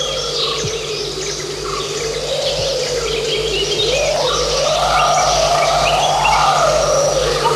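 Forest birds chirping, many short calls, over a long wavering tone that climbs in pitch about four seconds in and sinks back near the end, with a steady low hum beneath.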